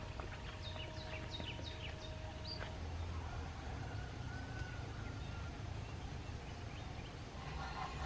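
A small bird calling in a quick run of about seven short, falling chirps in the first few seconds, over a steady low rumble.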